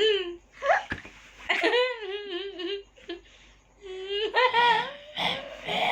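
Baby giggling and squealing in several short, high-pitched bursts with a wavering pitch.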